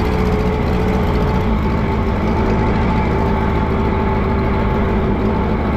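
Allis-Chalmers G tractor's four-cylinder engine running steadily under load as the tractor drives in second gear, with a steady whine over the engine noise.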